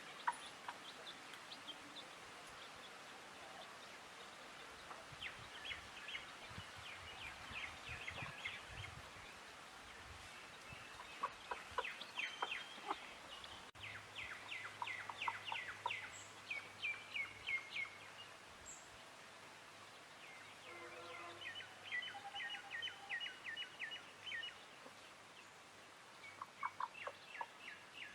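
Songbirds chirping: several bursts of quick, repeated, high chirps in rapid trills over soft outdoor background noise, with a brief lower call about three-quarters of the way through.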